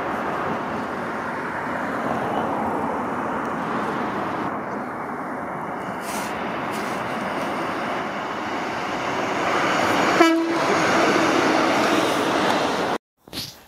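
Northern Class 150 Sprinter diesel multiple unit approaching and passing, a steady rumble of engine and wheels on the track, with a short horn toot about ten seconds in.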